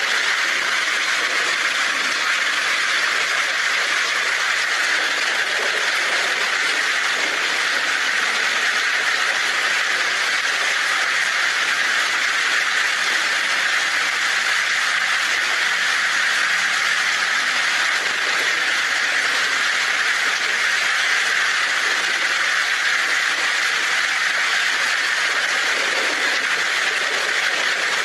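Heavy rain pouring steadily onto a tin roof, an even hiss that does not change in strength.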